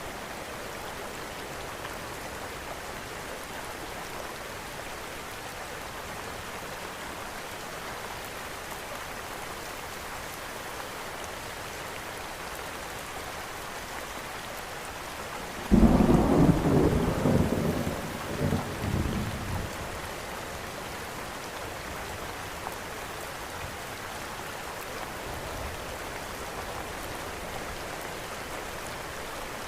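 Steady rain with a single thunderclap about halfway through: a sudden loud crack that rolls on in a few swells and dies away over about four seconds.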